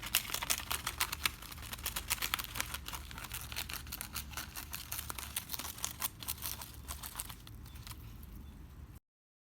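A pet bird shredding paper with its beak: rapid crinkling and tearing snips, thinning out and stopping abruptly near the end.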